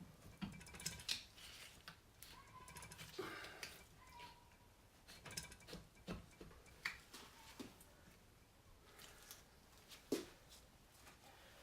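Faint, scattered clicks and light metallic clinks from tools and engine parts being handled, a few with a short ring.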